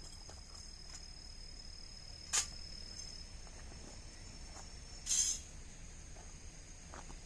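Insects trilling steadily in a high, thin tone, with a sharp click about two and a half seconds in and a short rustling burst a little after five seconds.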